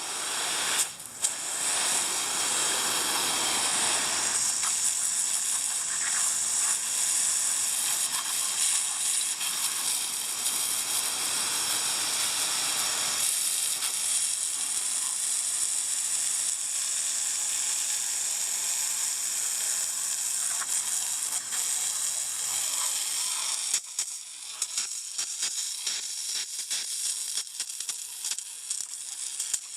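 Water spraying from a nozzle onto freshly milled walnut slabs in a steady hiss. The hiss stops about 24 seconds in, and scattered light clicks and ticks follow.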